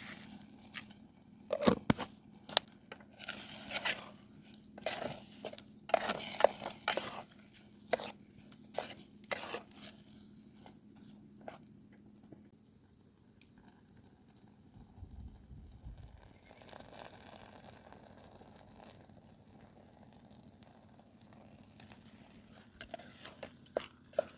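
Sharp crinkling and crunching handling noises, one after another, for roughly the first half. Then it goes quieter, with a cricket chirping in short, rapid trills, once in the middle and again near the end.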